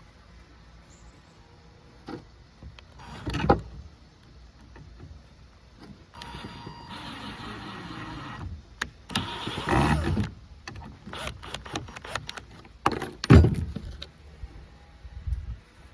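Cordless drill motor running for a couple of seconds about six seconds in, drilling a pilot hole, then a louder noisy run. Around it, clicks and knocks of handling tools and parts, with a sharp knock near the end the loudest.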